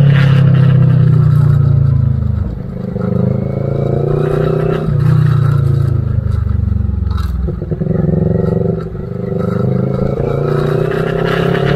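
CFMoto 400NK motorcycle's parallel-twin engine running while riding, its pitch climbing under throttle and dropping back several times.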